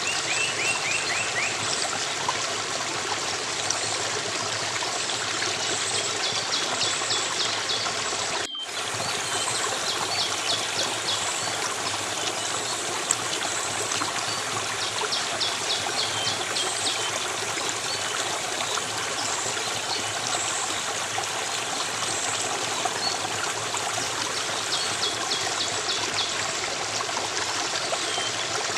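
Steady trickling stream of running water, with short, rapid high-pitched bird trills repeating over it every few seconds. The sound cuts out for an instant about a third of the way through.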